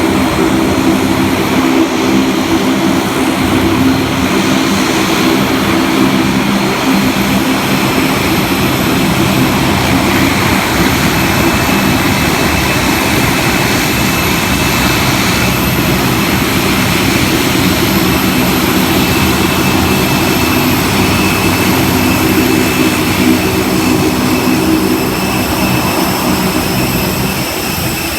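A loud engine running steadily, with a droning hum and a steady high whine over it, easing slightly near the end.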